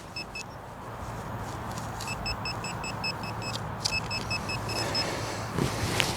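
Handheld metal-detecting pinpointer beeping in short rapid runs, about five high beeps a second, as it is passed over a buried target; three runs, the longest in the middle, over a steady rustling background.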